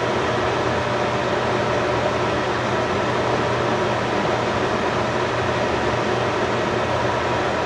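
A steady, unchanging machine hum with a rush of air, holding a fixed low drone throughout.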